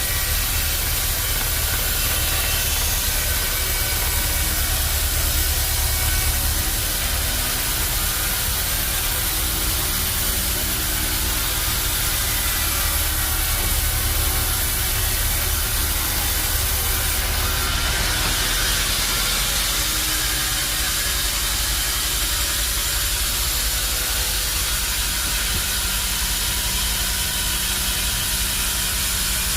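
Bandsaw sawmill running and cutting a teak log: a steady hiss of the blade over a low motor hum. The sound shifts slightly a little over halfway through.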